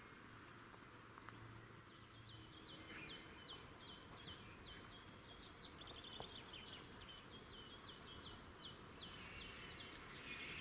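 A songbird singing faintly, one short high phrase repeated about twice a second, starting about two seconds in, over a faint background hiss.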